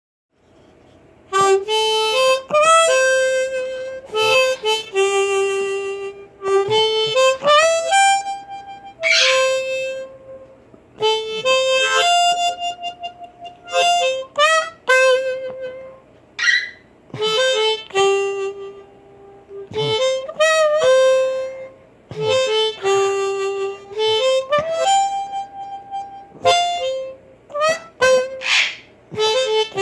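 Blues harmonica played in a melodic phrase of single notes and chords, with several notes bent upward in pitch.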